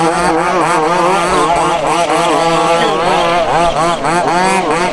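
Several 1:5 scale RC buggies' small two-stroke petrol engines revving hard as they race. Their pitches keep rising and falling and overlap one another as the cars accelerate and brake.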